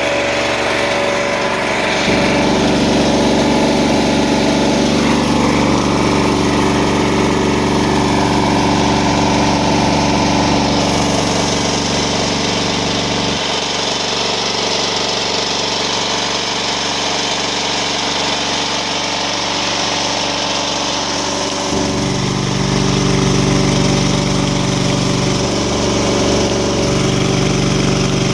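Hydramaster Boxxer 421 truck-mount carpet cleaning machine running steadily under test, showing that it has vacuum, heat and pressure. Its deep drone fills out about two seconds in, thins about halfway through, and grows fuller again near the end.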